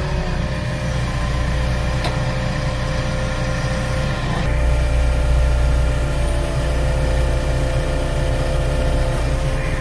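JCB backhoe loader's diesel engine running steadily, its note growing heavier and a little louder about four and a half seconds in as the machine takes on load.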